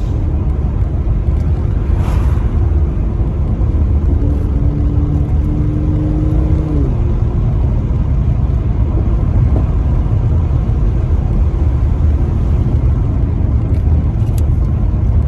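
Mercedes-AMG C43's twin-turbo V6 through its factory performance exhaust, running at a steady, gentle cruise with a deep rumble; a steady engine note holds for a few seconds mid-way and then drops slightly.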